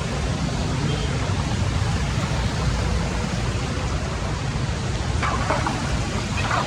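Steady rushing of floodwater flowing into a drain, with a few brief louder splashes about five seconds in.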